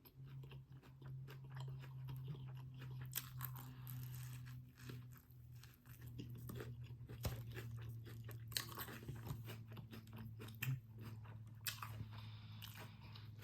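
A person chewing and crunching food close to the microphone, many short crisp crunches through the whole stretch, over a steady low hum.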